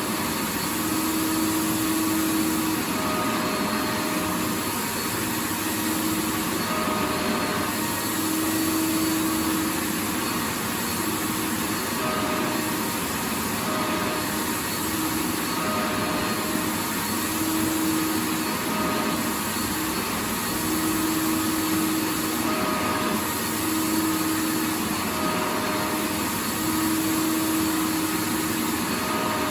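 Vacuum cleaner running continuously: a steady rush of air with a motor hum that keeps fading in and out.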